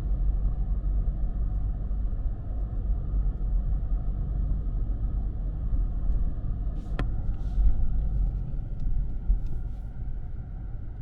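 Car being driven: a steady low road and engine rumble, with a single sharp click about seven seconds in.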